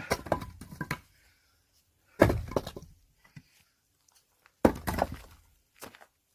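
Axe blows splitting firewood logs held inside a tire: two heavy strikes about two and a half seconds apart, each followed by a short crackle of the wood giving way. Lighter knocks and rattling come in the first second.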